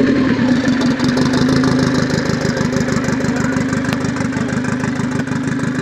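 Tuned Yugo hatchback's engine idling loudly with a steady, evenly pulsing beat.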